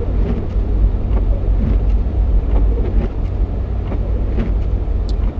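Jeep Cherokee XJ driving on a snowy highway: a steady low rumble of engine and road noise.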